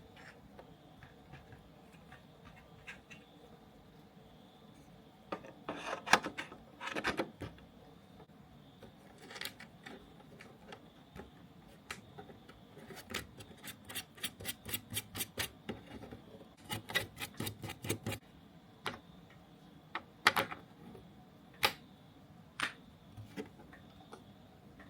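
Hand tools and small kit parts being worked on a bench: scraping and rubbing about six seconds in, then two runs of quick, evenly spaced clicks, about four or five a second, and a few sharp single clicks near the end.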